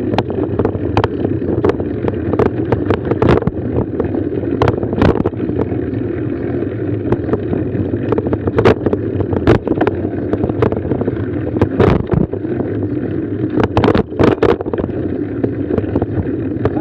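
Mountain bike riding over rough trail: a steady rumble and wind noise on the microphone, broken by frequent sharp knocks and rattles from the bike going over bumps.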